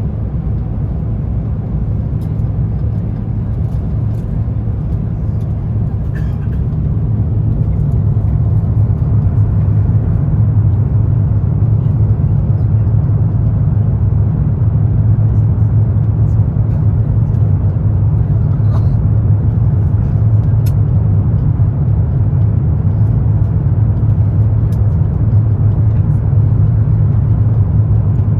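Airbus A350-900 cabin noise in flight: a steady low drone of the engines and the air rushing past the fuselage, growing slightly louder about eight seconds in.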